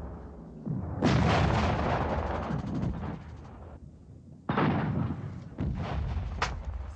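Heavy gunfire and explosions in a battle scene: a loud bang about a second in that rumbles away over a couple of seconds, a second bang midway that also dies away, then another bang and a short sharp crack near the end.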